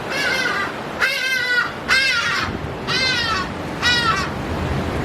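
A bird giving five loud harsh calls about a second apart, each falling slightly in pitch, over a steady rush of wind and surf.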